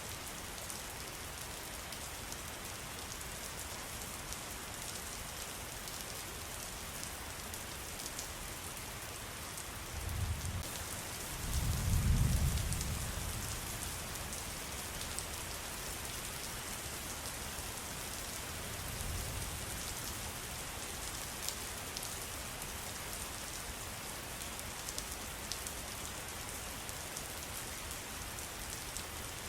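Steady patter of rain with fine drips, an even wash of water noise. Low rumbles come about ten and twelve seconds in, the second the loudest, with a weaker one near nineteen seconds.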